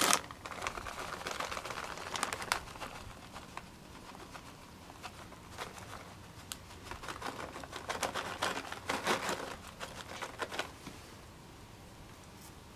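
Plastic packaging crinkling and rustling in two spells of handling, with a quieter gap between them.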